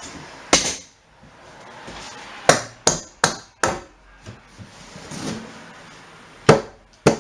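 Hammer blows knocking a load-bearing wooden framing piece into position, struck a little at a time. There is one knock, then a quick run of four, a couple of light taps, and two more hard knocks near the end.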